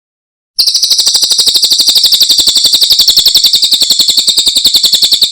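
Cililin bird singing one long, fast, even, high-pitched trill of about fifteen notes a second, starting about half a second in.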